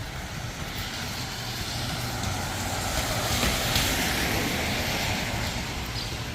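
Road vehicle passing on wet pavement: a hiss of tyres and engine that swells to a peak midway and eases off near the end.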